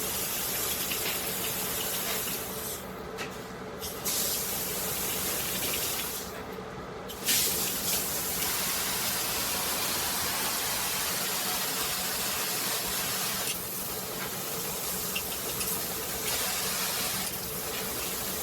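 Water spraying from a PWERAN filtered handheld shower head, a steady hiss that dulls briefly twice, at about three and six and a half seconds in.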